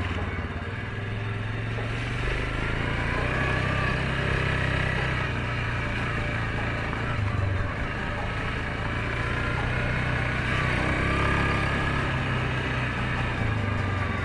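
Suzuki KingQuad 750 ATV's single-cylinder engine running steadily under way on a dirt trail, its pitch wavering a little with the throttle.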